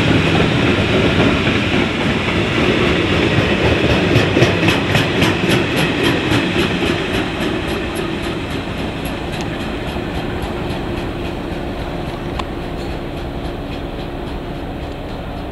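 A train rolling slowly past, a steady rumble of wheels on rail with a run of evenly spaced clicks as the wheels cross rail joints, gradually fading in the second half.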